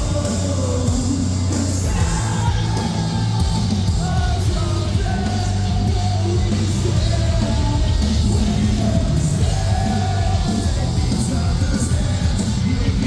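Live metalcore band playing a song at full volume, with heavy bass and drums under melodic sung vocals.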